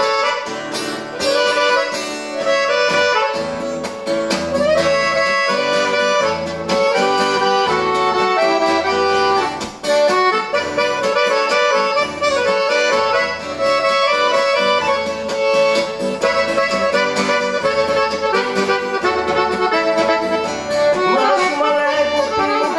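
Accordion (gaita) playing an instrumental interlude in a gaúcho song, a run of sustained and moving melody notes over a steady, rhythmic bass accompaniment.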